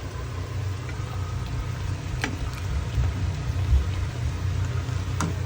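Steady low rumble of kitchen appliance noise while a pan cooks on the stove, with a couple of light utensil clicks.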